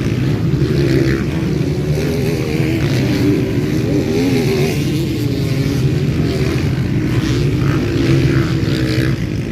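Several motocross bikes racing around the track, their engines revving up and down.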